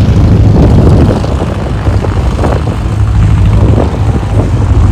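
Bushcat light aircraft's engine and propeller running steadily, heard as a loud low rumble.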